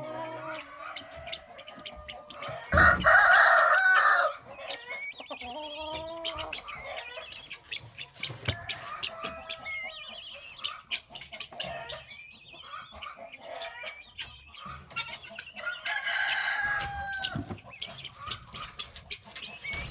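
A flock of chickens clucking and calling, with a rooster crowing loudly about three seconds in and again around sixteen seconds.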